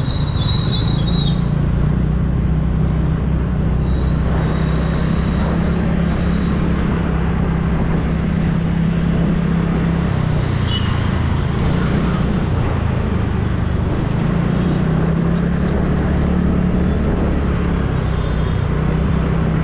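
TVS Ntorq scooter's single-cylinder engine running steadily while riding, with road and wind noise and passing city traffic. A few faint high tones come and go.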